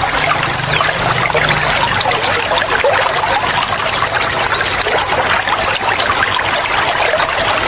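Running water pouring and trickling steadily, with short high bird chirps over it about halfway through.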